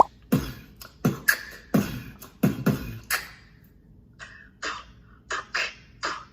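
A person beatboxing. Deep bass kicks that drop in pitch alternate with sharp snare-like mouth sounds, a kick roughly every 0.7 s for about three seconds. From about four seconds in, the pattern switches to lighter, quicker hi-hat-like hits.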